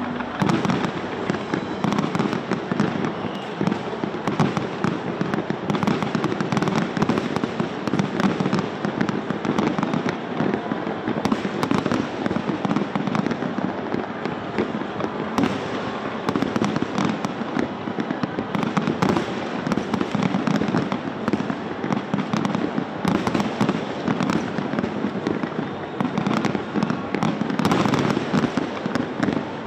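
Large aerial fireworks display fired from barges offshore: a dense, continuous barrage of shells bursting and crackling in quick succession, without a pause.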